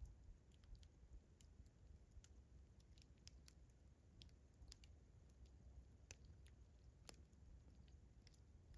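Campfire crackling faintly: irregular sharp pops and crackles of burning wood, a couple of stronger pops about six and seven seconds in, over a low rumble.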